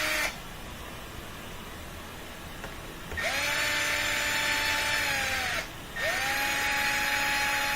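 Power drill/driver backing out the front-panel screws of a dishwasher. It runs in two spells of about two and a half seconds, from about three seconds in, each winding up quickly, holding a steady whine and winding down as it stops. A previous run ends just at the start.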